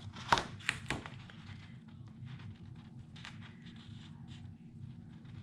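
Three sharp taps within the first second as paper is pressed down onto the layout on a craft table, then a few fainter ticks and light handling noise over a steady low room hum.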